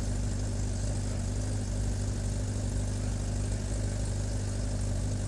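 Radical SR3 sports car engine idling steadily at an even pitch.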